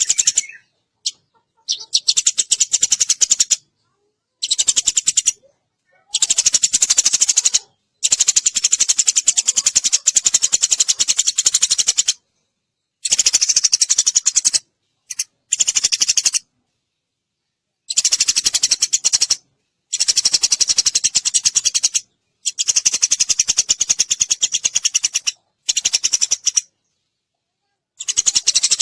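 Sparrows chirping rapidly and continuously in a decoy call recording used to lure birds. The chirping comes in bouts of about one to four seconds, each cut off abruptly by a short silence.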